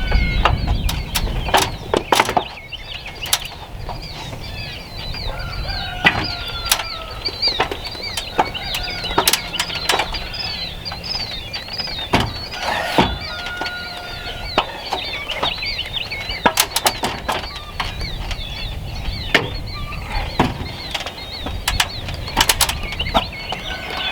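Scattered sharp knocks and taps from nailing up wall sheathing, over poultry calling, with chirps throughout and a few longer held calls.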